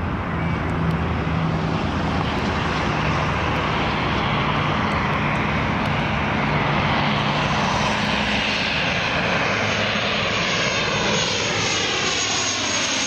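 Dash-8 Q400 turboprop on short final passing close by: a steady propeller drone under a broad engine rush. In the second half the pitch sweeps downward as the aircraft goes past.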